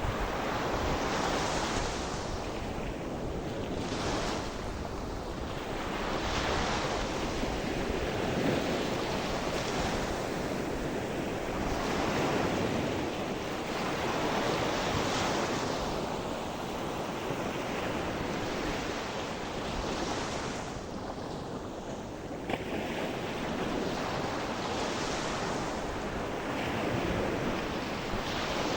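Ocean surf: waves breaking and washing ashore in a steady rhythm, swelling and easing every few seconds, with wind rumbling on the microphone underneath.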